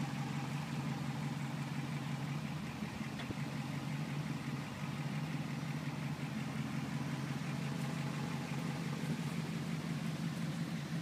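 1955 Ford Crown Victoria's Y-block V8 idling steadily.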